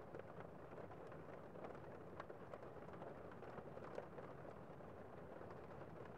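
Gentle rain falling on a window pane: a faint, steady hiss with scattered small drop ticks.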